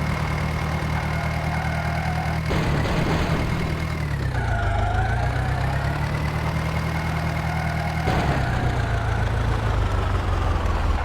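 Mahindra Arjun tractor's diesel engine running steadily. Its pitch sags for about a second, around four to five seconds in, then picks up again, with further slight changes in speed.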